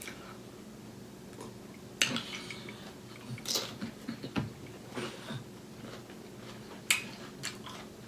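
Cutlery clicking against a dish a few times, with soft chewing between the clicks.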